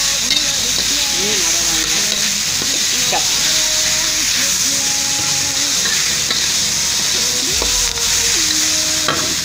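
Chili spice paste sizzling steadily in hot oil in a metal wok as it is stir-fried with a metal spatula.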